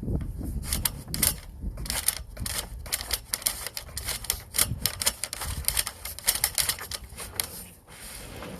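Rapid, irregular clicking and rattling from a sewer inspection camera being worked through a drain pipe: the push cable and camera head knocking and scraping against the pipe.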